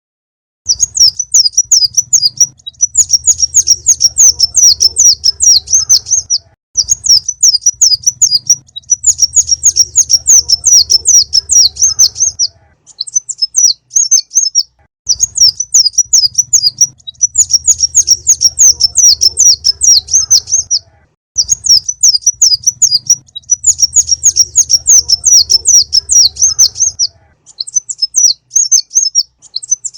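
Konin (sunbird) song played as a lure recording: rapid, high twittering chirps in long phrases of about six seconds, separated by short pauses and repeating in the same pattern, over a faint low hum.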